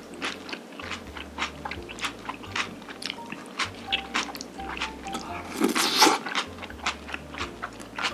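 Close-miked chewing of jjajangmyeon and sweet and sour pork, a quick run of crunchy bites and chews with a louder one about six seconds in, over light background music.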